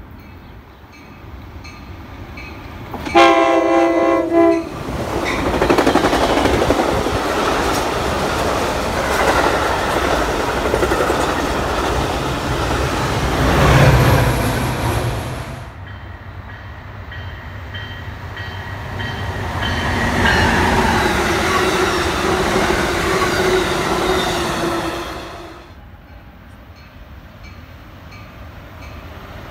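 Metra commuter train sounds its horn in one blast about a second and a half long, about three seconds in, then passes at speed. The noise builds to its loudest as the locomotive goes by about halfway through, and the bilevel cars run past after it. The sound drops sharply a few seconds before the end, leaving only a quieter, more distant train.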